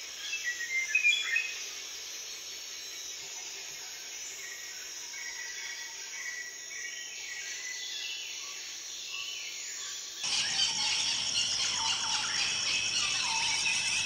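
Tropical rainforest ambience: bird calls and chirps over a steady insect chorus, with a quick run of loud chirps about a second in. About ten seconds in it switches abruptly to a louder, denser chorus of insects and birds.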